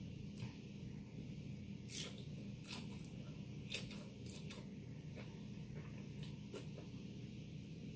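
Mouth sounds of eating a taco: chewing with a scattering of short, sharp wet smacks and clicks.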